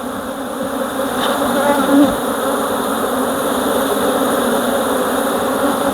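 Honeybees buzzing steadily in a dense, even hum around an opened hive.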